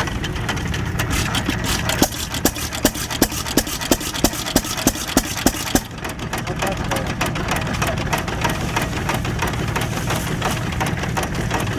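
Antique stationary engine running with machinery, a steady low hum under a dense rapid clatter. From about two to six seconds in, a run of sharp knocks comes about three a second.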